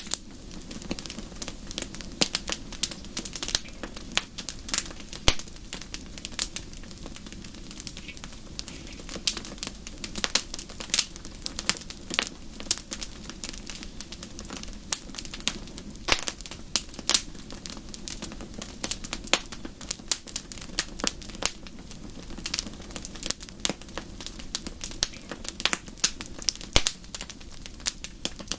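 Wood fire in a fireplace crackling, with frequent irregular sharp pops and snaps over a steady low rush from the flames.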